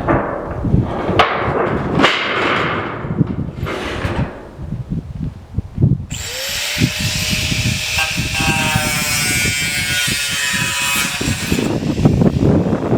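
Power tool cutting steel roofing sheet: about six seconds in it starts with a rising whine and a loud, harsh hiss, runs for about five seconds, then stops. Before it, irregular knocks and rustling.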